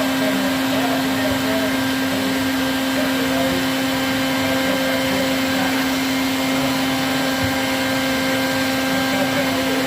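Vacuum motor running steadily, a constant unchanging hum.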